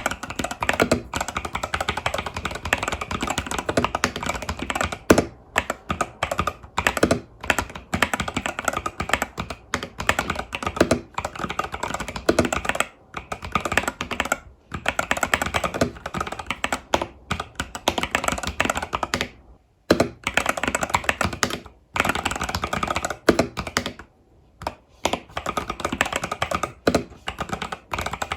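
Typing on an Epomaker TH80 Pro mechanical keyboard with Epomaker Budgerigar tactile switches and stock keycaps: fast, continuous keystroke clacks in long runs, broken by a few short pauses.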